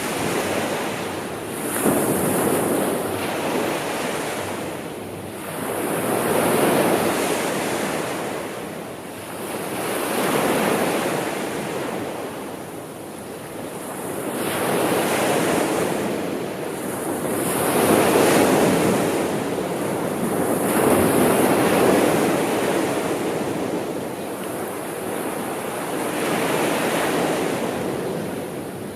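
Sea waves breaking and washing on a shore, rising and falling in a slow rhythm of a swell every few seconds.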